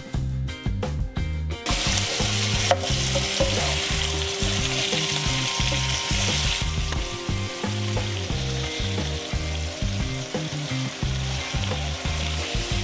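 Stir-frying: paneer cubes and bell pepper pieces sizzling in hot oil in a wok as a spatula turns them. A few light clicks come first, and the sizzle swells about two seconds in.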